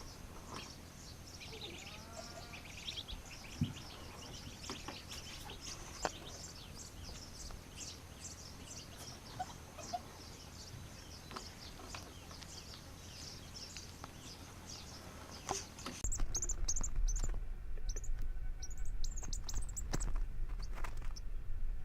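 Many short, high chirps, birdlike, repeating over a steady background hiss. About sixteen seconds in the sound changes abruptly to a louder low hum with quick falling chirps.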